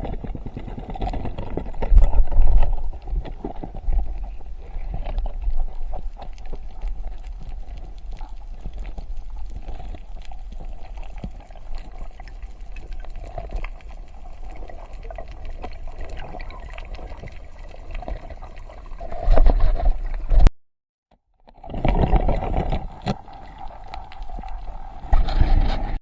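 Water gurgling and sloshing, with many small knocks and clicks, swelling louder about two seconds in and twice near the end. The sound breaks off into a second of silence about twenty seconds in.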